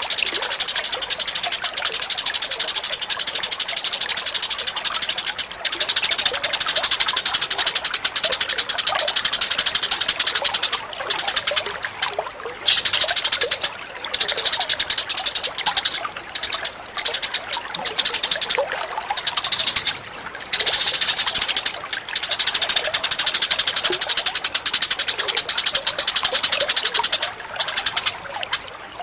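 Bird calls on a masteran training track: a loud, high-pitched ticking trill of very rapid pulses, breaking off briefly several times, over a faint trickle of water.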